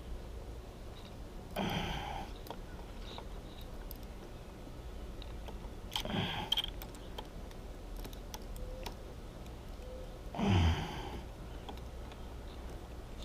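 A man exhaling heavily with a short voiced groan three times, about 1.5, 6 and 10.5 seconds in, each falling in pitch. Faint clicks of small hand tools and parts come in between.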